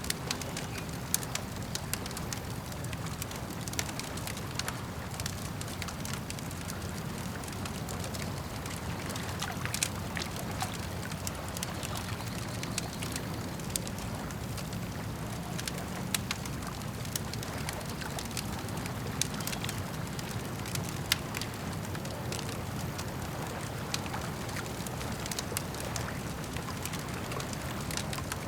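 Campfire crackling, with sharp irregular pops and snaps over a steady low rush of lapping lake water.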